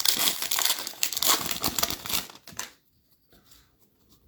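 Foil wrapper of an NBA Hoops trading-card pack crinkling as it is handled, a dense crackle that stops after about two and a half seconds.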